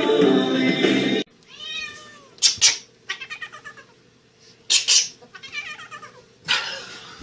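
Music with a beat cuts off about a second in. Then a cat meows repeatedly, in drawn-out wavering calls broken up by a few short noisy bursts.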